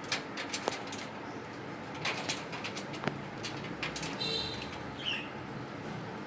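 Pet parakeets: scattered sharp clicks and taps, with a short harsh call about four seconds in and a brief chirp about a second later.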